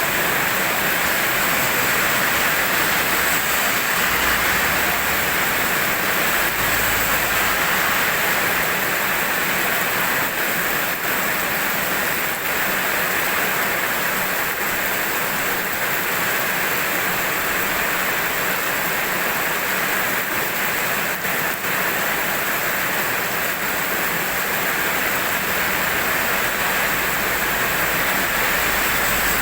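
Steady rain falling, an even dense hiss with no pauses or distinct drops standing out.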